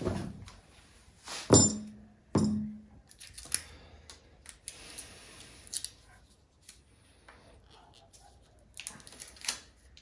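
Hand tools and kit parts being handled during a tire plug repair: two sharp knocks, each with a brief low ring, then light clicks and rustling.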